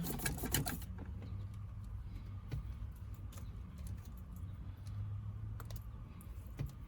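Faint scattered clicks and light handling noises of the interface's Wi-Fi antenna wire and nearby plastic parts being handled and fitted, over a steady low hum.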